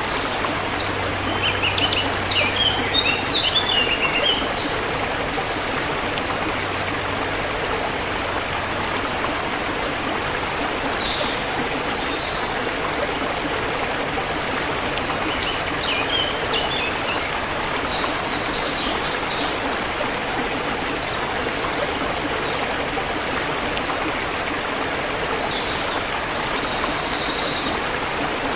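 Forest river water flowing steadily, with small birds chirping in short runs over it, busiest a few seconds in and again now and then later.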